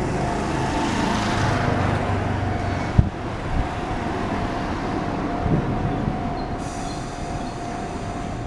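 Enoshima Electric Railway (Enoden) train running past at street level, a steady rumble with a thin high tone held over it. A single sharp knock sounds about three seconds in.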